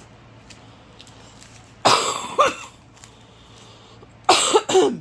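A woman coughing: one cough about two seconds in, then two quick coughs near the end. She puts the coughing down to bad morning allergies.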